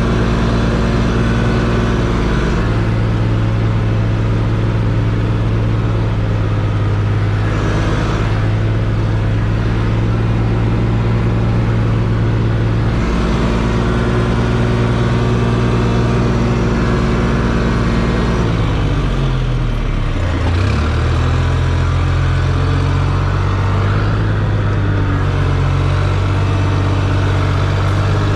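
Old Case C60 tractor engine running steadily under load; about two-thirds of the way through its speed dips sharply and then picks back up.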